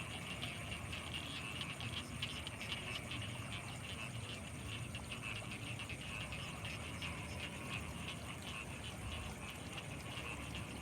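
Frog chorus from rice paddies at night: many rapid, overlapping calls without pause. Above it runs a steady high-pitched whine, and beneath it a low rumble.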